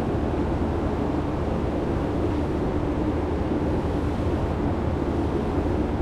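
Steady, unchanging background rumble with a low hum.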